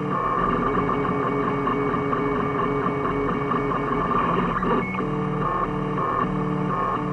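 Home-built FDM 3D printer's stepper motors whining at shifting pitches as the print head makes short moves, with a busier run of rapid changes in the middle. A fan hums steadily underneath.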